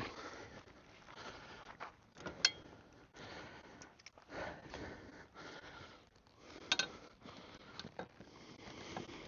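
Close handling noise, rustling and scraping, with two sharp clicks about two and a half seconds in and near seven seconds in.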